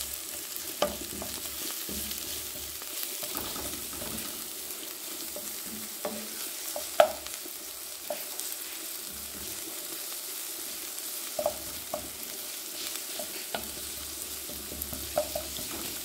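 Sliced red onion and garlic sizzling in hot olive oil in a frying pan, stirred with a wooden spoon. The spoon knocks against the pan now and then in short taps, the sharpest about seven seconds in.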